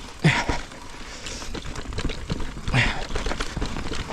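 Mountain bike ridden over a wet, rooty trail: the tyres, chain and suspension knock and rattle unevenly as the bike bumps over roots. Twice, about a third of a second in and near three seconds in, the rider gives a short grunt.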